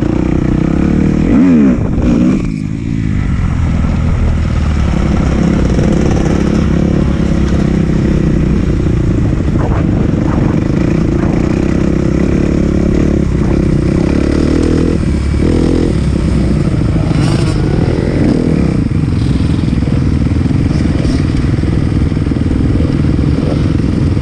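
2018 Kawasaki KX250F's single-cylinder four-stroke engine running hard on a motocross track. The revs shift quickly with a brief dip about two seconds in, then it runs steadily at high revs.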